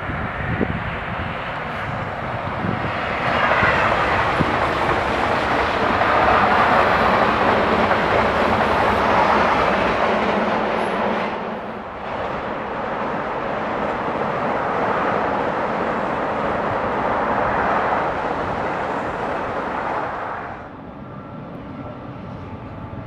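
Train passing through a station: a loud, steady rush and rumble of wheels on rail, with a short dip about halfway, that falls away near the end, leaving a quieter steady whine.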